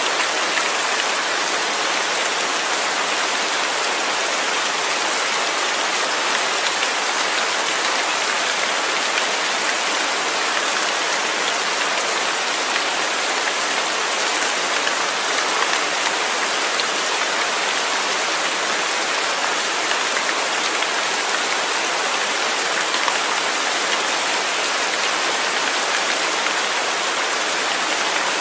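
Steady rain falling, a dense even hiss of drops striking a surface with fine scattered patter, unchanging throughout.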